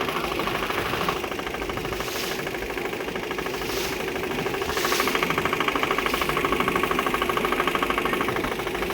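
A motorboat's engine running steadily with a fast, even knocking beat. It gets a little louder from about five seconds in until near the end.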